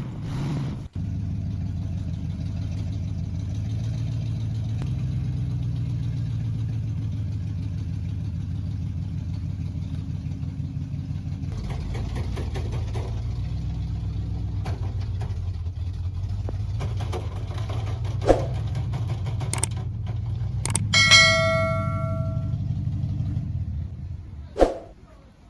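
A vehicle engine running steadily, with a few sharp knocks. Later a single ringing metallic clang is the loudest moment, and the sound fades near the end.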